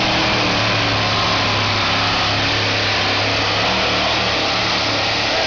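Competition pulling tractor's engine running hard at full throttle during a pull, loud and steady.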